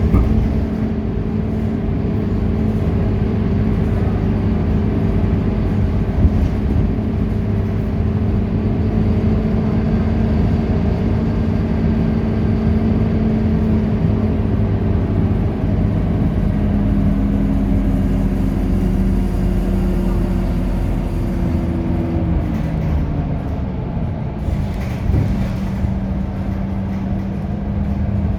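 Scania K230UB city bus's five-cylinder diesel engine running under way, a steady drone. About two-thirds of the way through, its pitch falls as the engine winds down, then it holds a lower steady note.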